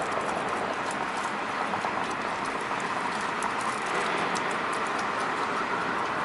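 SL Ginga steam train: a steady hiss with many scattered light clicks.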